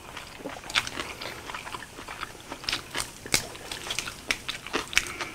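People chewing and biting lettuce-wrapped grilled pork: a string of irregular wet mouth clicks and small crunches.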